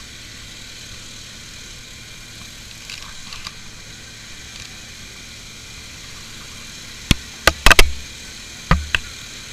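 Steady low vehicle running noise, then a quick run of sharp knocks or clicks about seven seconds in, with two more just before the end; the knocks are the loudest sounds.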